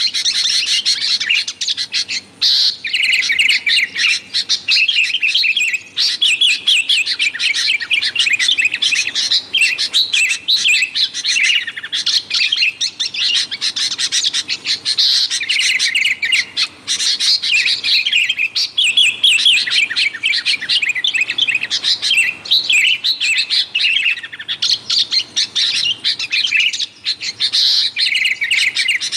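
Sooty-headed bulbuls calling in a busy, nearly unbroken run of quick chirping phrases, with short pauses every few seconds.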